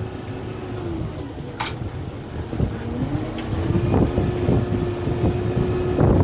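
Kubota M6-141 tractor's diesel engine running under load: its pitch sags about a second in and climbs back up around three seconds in. Scattered sharp cracks and knocks sound over it as the grapple works through light brush.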